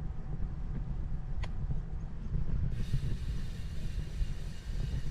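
Low wind rumble on the microphone while cycling. A steady hiss joins about three seconds in, with a single small click a little before.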